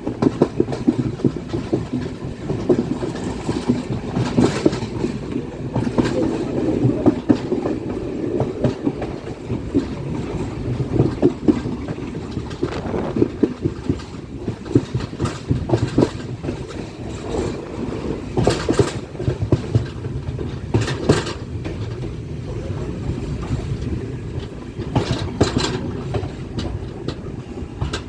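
Train running along the track: a steady rumble with the wheels clattering and clicking over the rails, and a few sharper knocks here and there.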